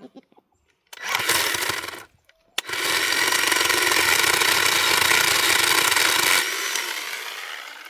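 Worx electric chainsaw cutting a redwood limb. A short burst of the motor comes first, then a brief pause, then a longer cut of about four seconds that fades out as the limb is cut through.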